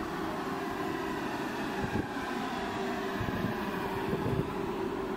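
Deutsche Bahn Intercity train rolling into the platform, cab car first: a steady rumble of wheels on rail with a steady humming tone held throughout and a few knocks from the wheels.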